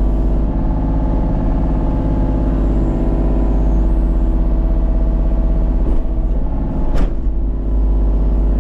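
A heavy engine running steadily at an even speed, with one sharp crack about seven seconds in.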